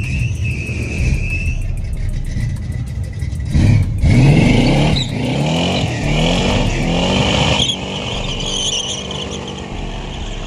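Car engine revved several times, its pitch rising with each blip, then dropping back to a steadier idle near the end.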